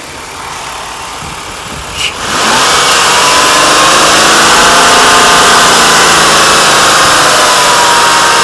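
Ford Taurus's 3.0-litre Duratec V6 running at idle in the open engine bay. About two seconds in there is a click, and the sound becomes much louder and stays steady, with a whirring tone over a hiss.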